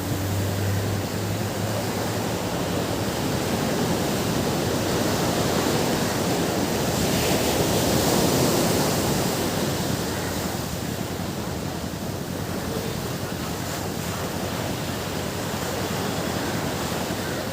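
Ocean surf washing onto a beach: a steady rush of waves that swells to its loudest about halfway through, then eases back.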